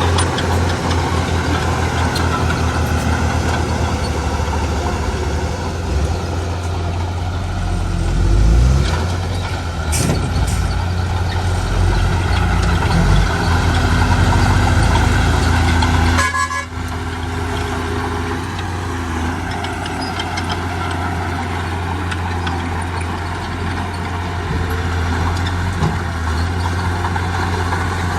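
Diesel engines of heavy earthmoving machinery running steadily under work. There is a brief break and change in the sound about sixteen seconds in.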